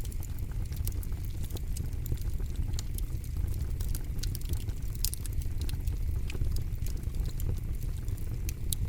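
Campfire crackling: a steady low rumble of burning wood with frequent, irregular sharp snaps and pops, the loudest about five seconds in and again near the end.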